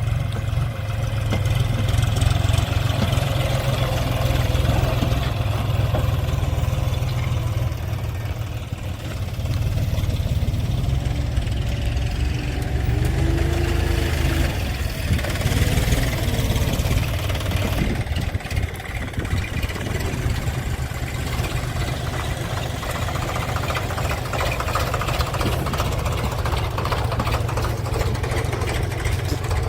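Heavy diesel machine engine running steadily with a low chugging knock, and a brief rising tone near the middle.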